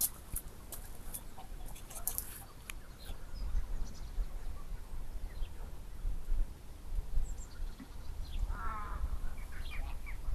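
Scattered bird calls, with one louder call about eight and a half seconds in, over a low steady rumble and a few clicks near the start.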